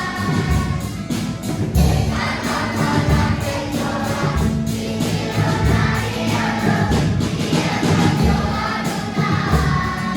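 A choir singing a song with instrumental accompaniment, the low notes moving in a steady beat under the voices.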